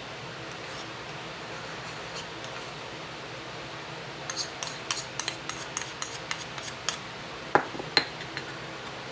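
Light clinking and tapping of kitchen utensils and dishes over a steady low hiss: a quick run of small clinks starts about four seconds in, then two louder knocks come near the end.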